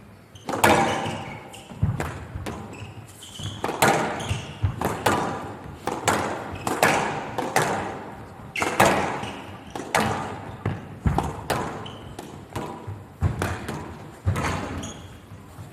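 Squash rally: the ball cracks off the racket and the court walls in a steady series of sharp strikes, often in quick pairs, about once a second, each with a short echo.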